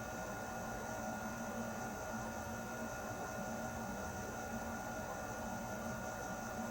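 Air conditioner running steadily: an even rushing of air with a steady mechanical hum of several fixed tones underneath.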